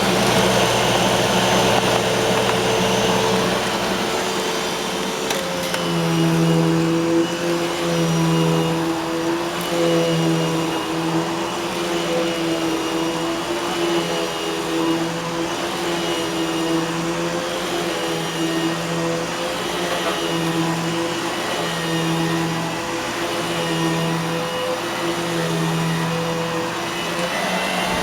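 Eureka Boss Smartvac 4870 upright vacuum cleaner running on its bare-floor setting: a steady motor whine. From about six seconds in, a low hum under it swells and fades about every second and a half.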